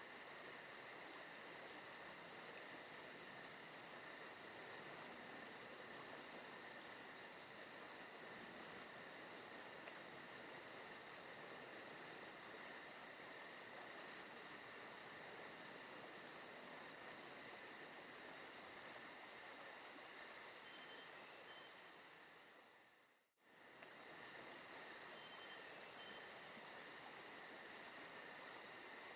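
Forest ambience recording of insects chirping in a steady, faint, even drone. About three-quarters of the way through it fades out almost to silence and immediately comes back in.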